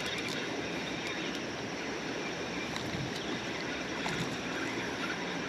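Steady rushing of river water flowing past the boat, with a few faint light clicks.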